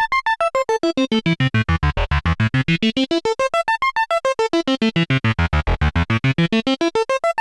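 Arturia MiniBrute 2 analog synthesizer playing a fast sequence of short, staccato notes, about eight a second, climbing and falling in pitch in repeated runs, with low bass notes at the bottom of each run.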